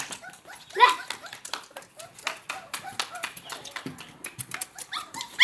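A Labrador puppy gives one short yelp that rises in pitch about a second in, among many small clicks and taps.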